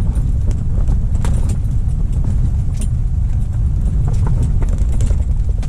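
Strong wind buffeting the microphone, a loud steady low rumble, with a scattering of short sharp knocks and rattles over it.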